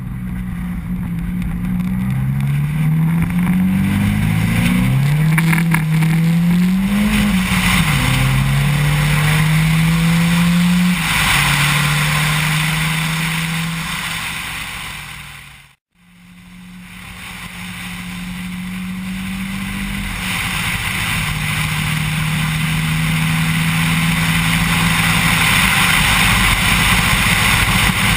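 Opel Kadett E with a swapped-in Saab engine accelerating in a short pull. The engine note climbs and drops back several times in the first seven or eight seconds, then holds steady under loud wind and road hiss. About halfway through it cuts off abruptly and starts again with the engine running at a steady note as the hiss builds.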